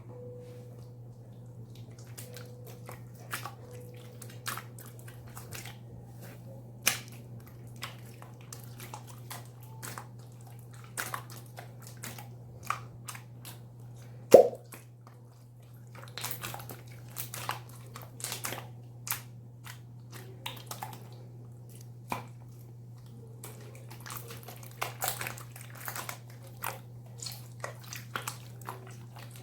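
Slime being squeezed and worked by hand, giving off irregular sharp clicks and pops, the loudest about fourteen seconds in, over a steady low hum.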